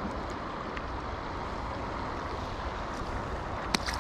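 Steady rush of water flowing over a spillway into a creek, with one sharp click near the end.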